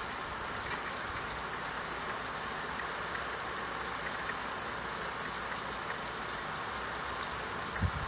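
Steady rain falling, an even hiss with a few dull low thumps near the end.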